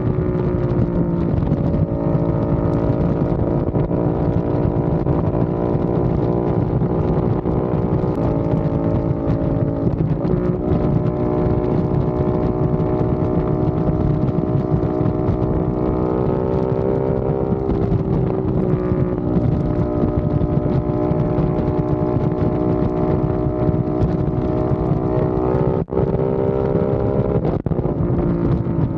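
Aprilia RS660 parallel-twin engine running through a non-resonated Mivv X-M1 Evo exhaust with a deep, bassy tone. The engine note holds steady for long stretches, and its pitch steps up or down a few times, as with gear changes or throttle changes.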